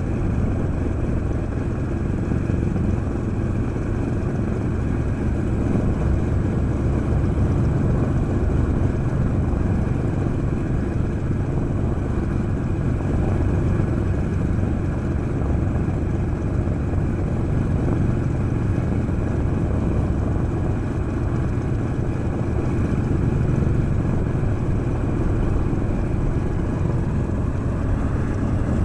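Douglas A-26B Invader's Pratt & Whitney R-2800 radial engine running steadily on the ground, with all cylinders firing. The sound is a loud, even, low-pitched drone that holds without change.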